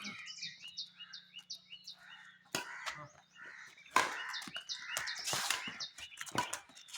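A bird chirping repeatedly in short, high, falling notes, about three or four a second, then stopping. Several sharp knocks or clicks follow in the second half, the loudest about four seconds in.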